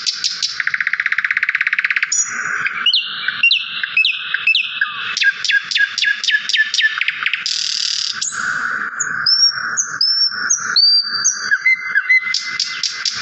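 A small songbird singing a long, varied song: a very fast buzzy trill, then runs of quick down-slurred notes and chips, then sweeping rising whistles, with another fast trill near the end.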